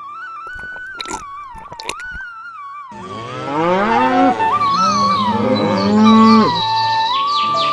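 Flute-like background music, joined about three seconds in by several louder, overlapping animal calls that slide up and down in pitch.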